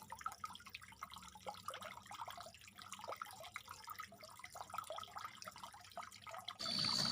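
Faint background: scattered small ticks over a low hum, with a soft hiss coming up near the end.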